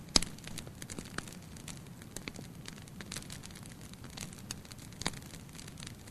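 Wood fire burning in a fireplace: a low steady rush of flame with irregular sharp crackles and pops, the loudest pop just after the start and another about five seconds in.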